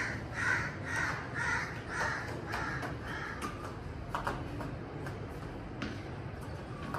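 A bird calling: a run of about seven harsh calls, roughly two a second, stopping about three and a half seconds in. A couple of faint sharp clicks follow later.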